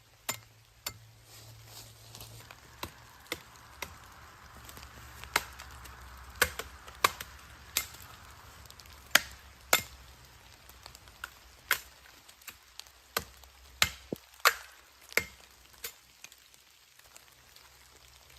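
Wood being chopped with a blade: about twenty sharp strikes, unevenly spaced at roughly one a second.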